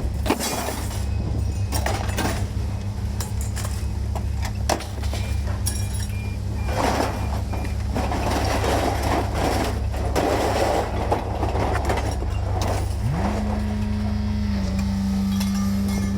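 Truck engine running with steady road noise while driving, and scattered knocks and rattles. About three quarters of the way through, the engine note rises quickly and then holds at the higher pitch.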